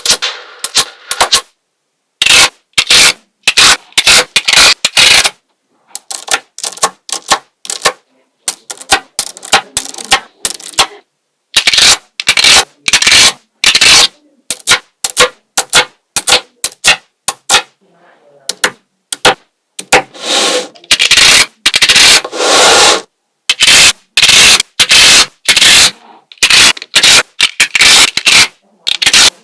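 Small magnetic balls clicking and rattling as they snap together and are scraped and pushed into shape, in many short bursts broken by abrupt silences.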